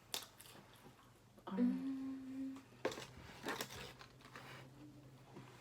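A person gives a short closed-mouth hum, a low note stepping up to a higher one like "mm-hm", between a few sharp crinkling clicks, over a faint steady low hum.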